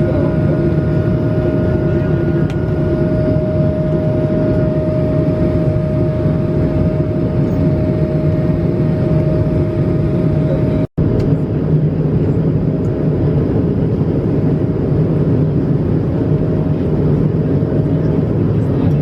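Steady cabin noise inside an Airbus A220-371 airliner, its Pratt & Whitney PW1524G geared turbofan engines running with a steady hum over a low rumble. The sound drops out for an instant about eleven seconds in, then carries on the same.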